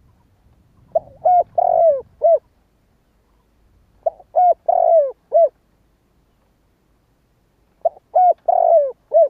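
Spotted dove cooing in three phrases about three seconds apart. Each phrase is a couple of short coos, then a longer coo that falls in pitch, then a final short coo; the last phrase is cut off at the end.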